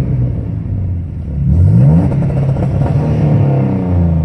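Twin-turbo 2011 Mustang V6, sleeved and bored to 3.9 liters, revved from idle: the revs climb about a second and a half in, hold against the two-step rev limiter, then drop back near the end.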